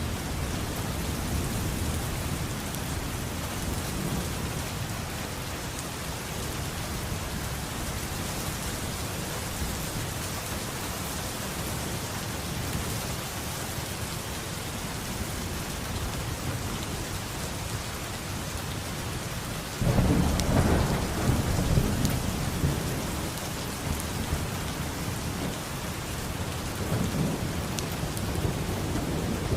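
Steady heavy rain with a constant hiss, with thunder rumbling low underneath; about two-thirds of the way through a sudden louder thunderclap breaks in and rolls away over several seconds, followed by a smaller rumble near the end.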